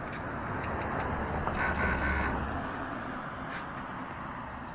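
A vehicle passing by, its noise and low rumble swelling to the loudest point about two seconds in and then fading away.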